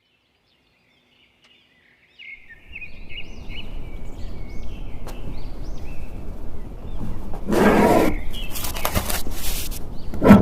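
A bird chirping over and over in short, high, arching notes over a steady noisy background, with two louder bursts of noise near the end.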